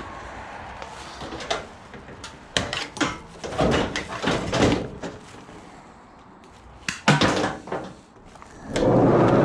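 A run of knocks, clunks and short clattering noises as scrap metal is handled, with a sharp knock about seven seconds in and a louder, longer noise near the end.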